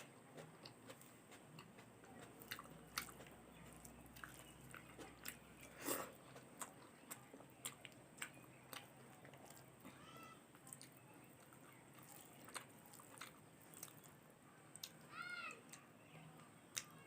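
A person eating a meal of rice, curries and salad: quiet chewing with scattered sharp mouth clicks and smacks. Two short high-pitched cries are heard, a little past halfway and near the end.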